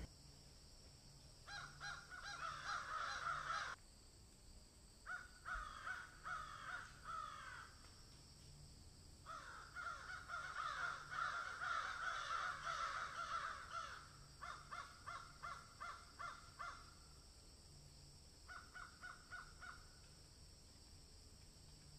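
A bird calling in bouts of rapid, harsh repeated notes, five bouts of a few seconds each separated by short pauses.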